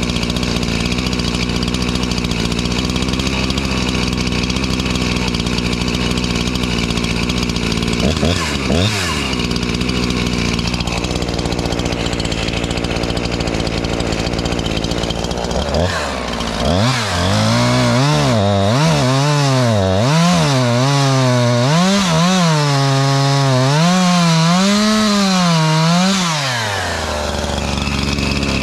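Husqvarna 345 two-stroke chainsaw engine idling, revved up once briefly, then blipped up and down over and over for about ten seconds before dropping back to a steady idle. These are throttle tests while the carburettor is being tuned after a rebuild.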